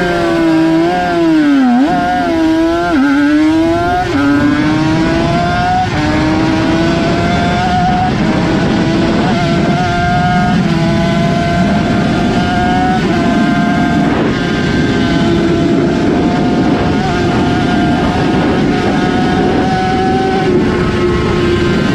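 Two-stroke racing motorcycle engine at high revs. Its pitch swings down and up several times in the first few seconds, then climbs again and again, dropping back briefly at each gear change every second or two.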